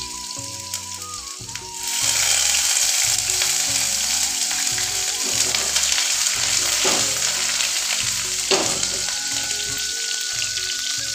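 Chopped garlic frying in hot oil in a pan, then a sudden burst of loud sizzling about two seconds in as chopped green chillies and ginger are added. The sizzling carries on steadily while the pan is stirred.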